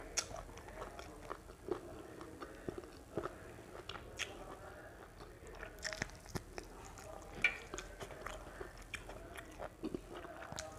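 A person chewing rice and curry eaten by hand, close to the microphone: wet mouth sounds with irregular short clicks and smacks.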